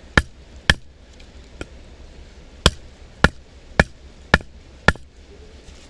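Batoning firewood: a wooden baton striking the spine of a Mora knife to drive the blade into a log, which is not splitting. Two sharp knocks early on, then five in a row about half a second apart.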